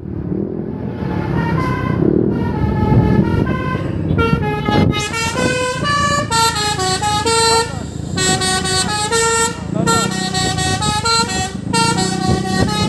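Basuri truck horn, a multi-tone musical air horn, playing a tune in quick stepped notes over the low rumble of a truck engine and traffic.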